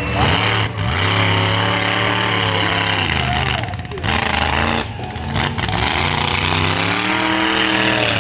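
Monster truck engine revving hard, its pitch rising and falling in repeated swells, with a few brief throttle lifts.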